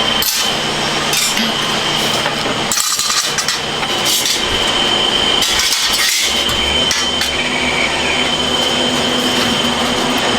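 Metal workshop noise: a steady machine whine and hum, broken by several short bursts of hiss and metallic clinking.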